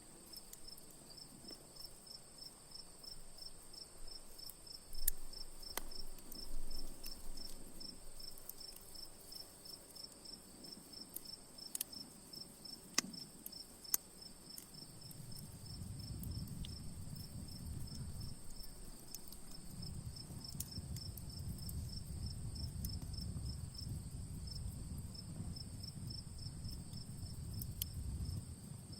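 Crickets chirping in a fast, steady pulse, with scattered sharp pops and crackles from a wood campfire. A low rumble comes in about halfway through and continues to the end.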